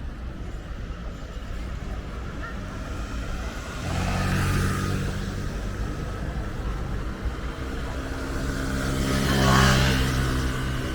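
Street traffic: two motor vehicles drive past one after the other, the first about four seconds in and the second, louder and closer, near the end, each rising and fading as it passes over a steady low rumble.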